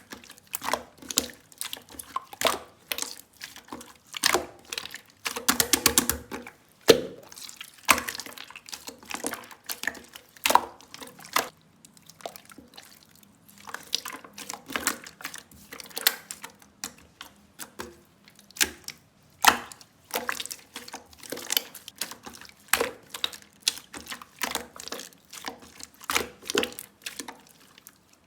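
Mixed slime squished, stretched and pressed by hand, making irregular wet clicks and pops, with a fast run of crackling pops about five to six seconds in.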